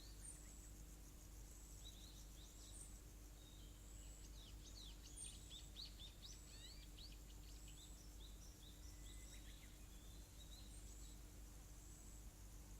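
Quiet outdoor ambience: small birds chirping faintly, with a quick run of rapid falling song notes in the middle, over a faint high chirp that repeats about once a second.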